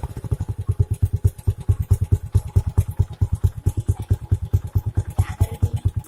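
Suzuki Gixxer SF's single-cylinder engine idling through a modified exhaust: a steady, even beat of low exhaust pulses, about eight a second.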